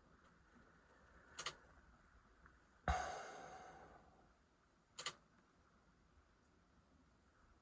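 Mostly quiet, broken by two sharp double clicks and, between them, one louder knock that rings and fades over about a second.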